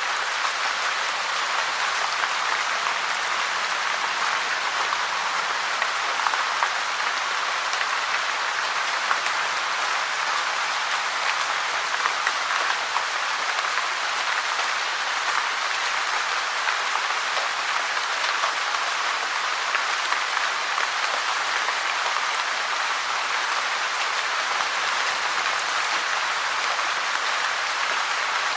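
Steady, dense rain falling: an even hiss with fine scattered drop ticks.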